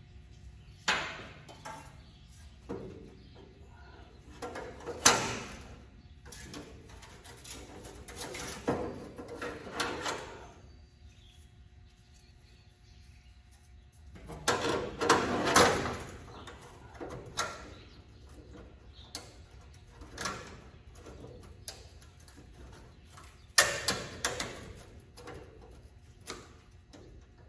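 Hand tools and metal parts knocking, clanking and rattling in irregular bursts a few seconds apart, the longest near the middle.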